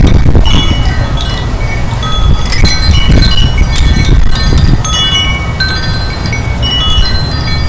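Wind chimes ringing and clinking irregularly in strong gusty wind, over a loud, steady wind rumble on the microphone.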